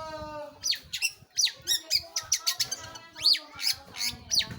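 Long-tailed shrike singing a rapid, varied string of sharp chirps and sweeping whistles, opening with a short held note.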